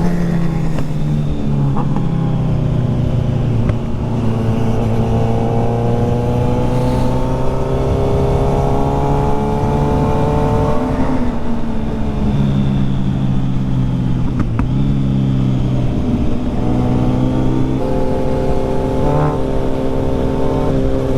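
Sport motorcycle engine heard from on board, cruising and pulling gently through the gears: the pitch climbs slowly, drops at a gear change about eleven seconds in, and shifts again a few seconds later. A steady rush of wind and road noise runs underneath.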